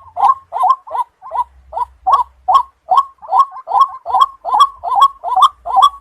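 Waterhen (jal murgi) calling: a long, regular series of short repeated calls, about three to four a second, with one brief break about a second in.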